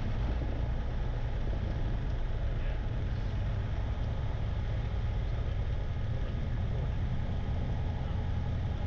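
Light airplane's engine running at low idle during the after-landing rollout and taxi: a steady low drone with no change in pitch.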